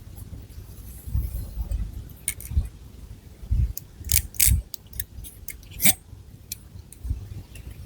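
Long fingernails scratching and moving through hair and scalp close to the microphone: scattered crisp crackles and clicks over low rustling thumps.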